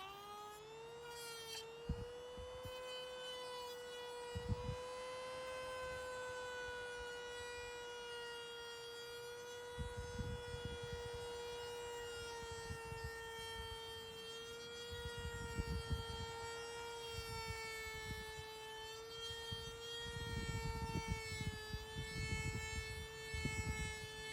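An electric power tool's motor running with a steady high whine that rises slightly as it comes up to speed at the start. Rough, gritty bursts of noise come and go several times, as the tool is pressed against the work.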